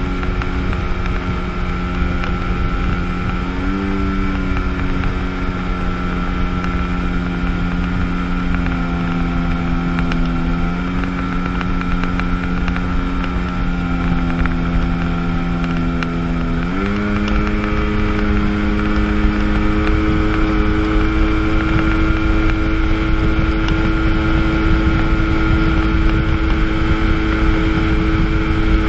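1997 Sea-Doo GTS jet ski's two-stroke 720 engine running steadily under way, over a rush of wind and water. The engine note steps up slightly about four seconds in and climbs clearly about seventeen seconds in as the throttle opens, then holds at the higher pitch.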